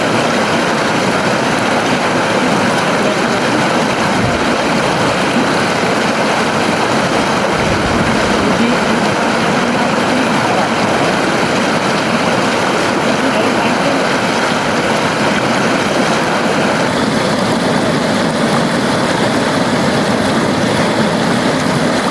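A river flowing steadily: an even, continuous rush of moving water.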